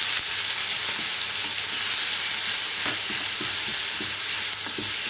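Chopped onion and garlic sizzling steadily in very hot mustard oil in a kadhai, the gas flame off, while a metal spatula stirs them. In the second half the spatula scrapes and taps against the pan several times.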